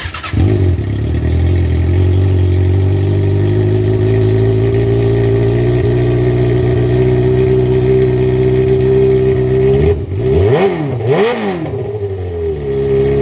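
2018 Kawasaki ZX-6R 636's inline-four engine idling steadily, then revved twice in quick succession near the end, its pitch rising and falling with each blip before settling back to idle.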